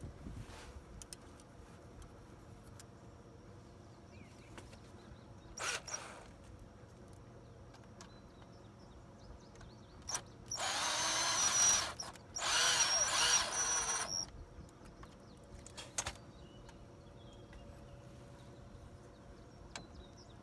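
Power drill run in two bursts of about a second and a half each, back to back, spinning up with a rising pitch and a steady high whine, during a makeshift repair of a mower's broken quick hitch. A few clicks and a short scrape come before and after.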